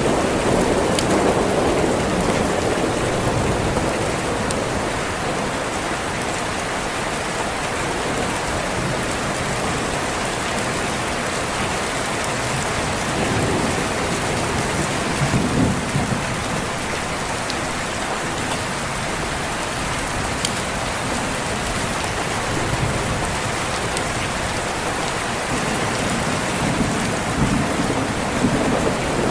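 Steady rain falling, with low rolling thunder that swells three times: at the start, around the middle and near the end.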